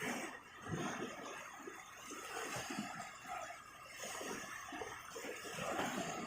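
Sea water washing and sloshing at the shoreline, an uneven, rising and falling rush.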